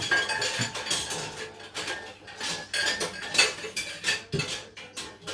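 Metal kitchen utensils and cookware clattering and clinking as they are handled, in a run of irregular knocks.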